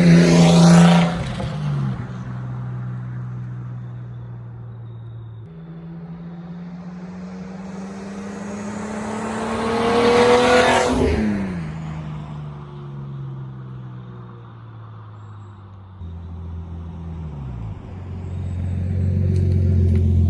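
Straight-piped Nissan Skyline R32, its cat-back removed so only the front cat remains, driving past twice. Each time the exhaust note swells and drops in pitch as the car goes by, once right at the start and again about ten seconds in, then fades between passes.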